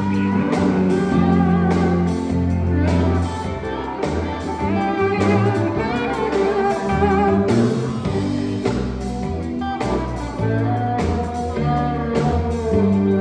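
Live sacred steel gospel band playing: sliding, wavering steel guitar lines over bass and drums.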